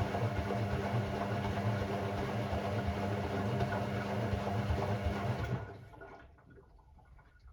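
Hoover Sportswear 1300 washing machine with water rushing through it over a steady low hum. It cuts off about five and a half seconds in, leaving only faint sounds.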